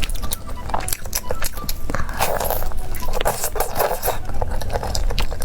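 Close-up eating sounds: chewing and biting, with many short wet clicks and smacks.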